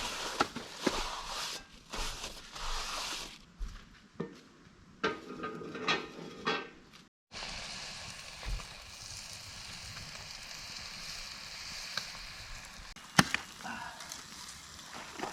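Irregular knocks and rustles of handling, then, after an abrupt cut, a steady sizzle of food frying over a campfire, with a sharp click near the end.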